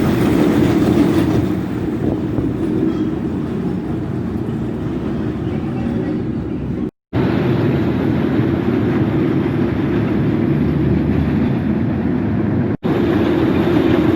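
Vampire suspended roller coaster's train running along its track: a steady, loud low rumble. The sound breaks off in two short gaps, about seven seconds in and near the end.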